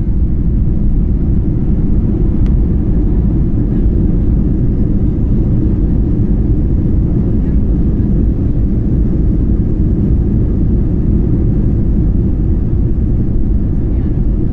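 Airbus A321-200 engines and airflow heard inside the passenger cabin as a steady low rumble.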